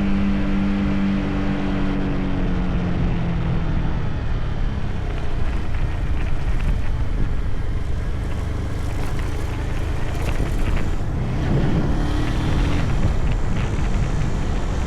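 Motorcycle riding at speed: a steady roar of wind noise on the microphone over the engine hum. The engine tone drops in pitch and fades over the first few seconds, then rises again briefly a little past the middle.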